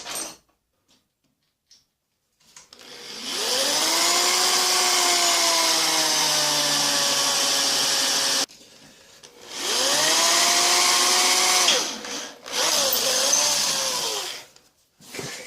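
Electric drill drilling a tapping-size hole for an M8 thread. The motor spins up with a rising whine and runs steadily for about six seconds, stops, then runs twice more in shorter bursts, its pitch sagging and wavering under load.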